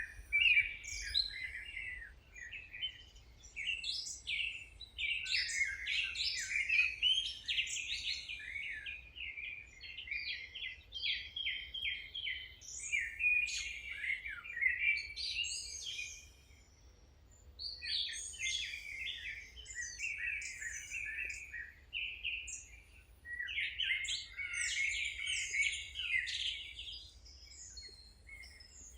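Several songbirds singing at once: overlapping chirps and quick trills in phrases of a few seconds, with a brief lull about halfway through. A faint low hum sits beneath.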